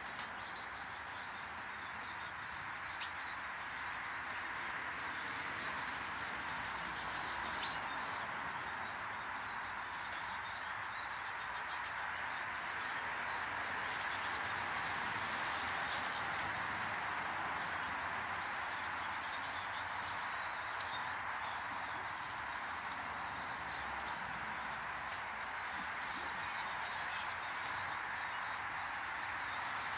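Small birds chirping now and then, a few short single chirps and one longer run of chirps about fourteen seconds in, over a steady outdoor hiss.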